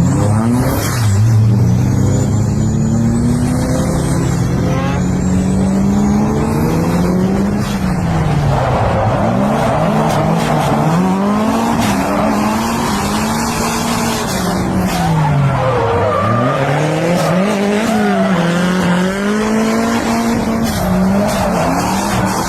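Turbocharged C6 Corvette V8 revving hard and falling back again and again every few seconds, with tyres squealing as the car slides in a drift.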